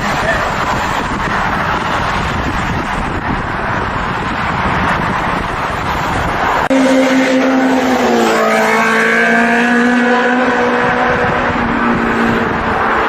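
Inline-four sportbike engine at speed, with heavy wind rush over the engine note. After an abrupt cut about two-thirds in, the engine is heard clearly as a steady, high-pitched note that dips slightly and then holds.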